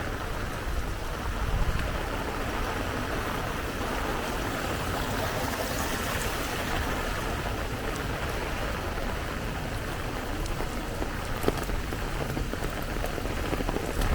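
Steady rain falling, an even hiss with scattered drips and a low rumble underneath.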